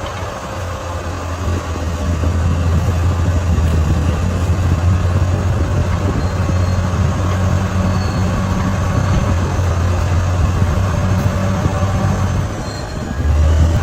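Crawler bulldozer's diesel engine running steadily with a deep hum. It gets louder about a second and a half in, eases off briefly near the end, then picks up again.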